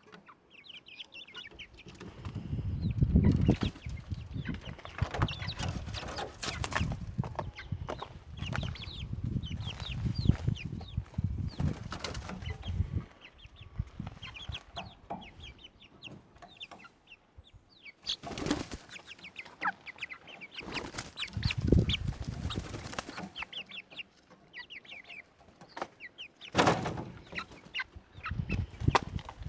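Chickens clucking with many short, high chirps throughout, mixed with stretches of wing flapping and scuffling as the birds jump.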